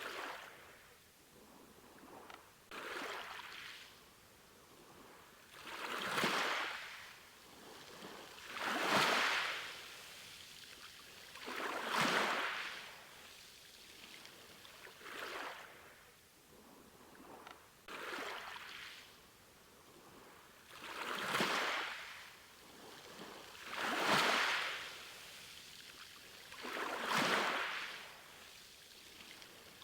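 Sea waves washing in, each one swelling to a rush and fading away, about one every three seconds.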